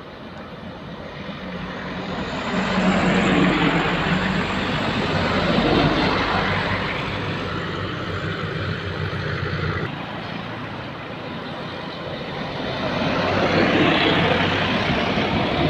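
Heavy trucks driving past, diesel engines running under load with tyre noise. The sound swells as a truck passes about three to six seconds in, eases off, then swells again with another pass near the end.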